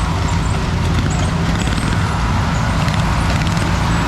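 Racing lawn mower engine running steadily at speed.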